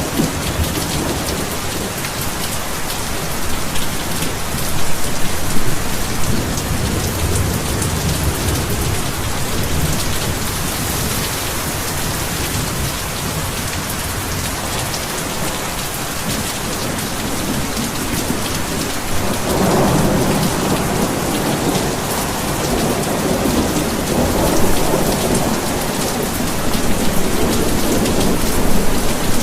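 Heavy rain falling steadily, with low rolling thunder swelling about five seconds in and again from about twenty seconds in.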